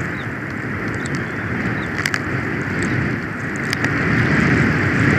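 Snowstorm wind buffeting an outdoor microphone: a steady rushing with a low rumble that swells and eases, and a few faint ticks.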